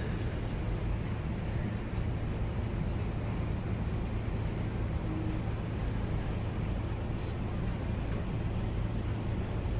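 A moving vehicle heard from on board: a steady low engine hum with rushing road and wind noise, unchanging throughout.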